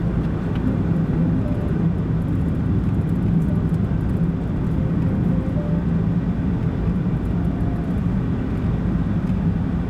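A car being driven at a steady pace, its engine and tyres making a constant low rumble.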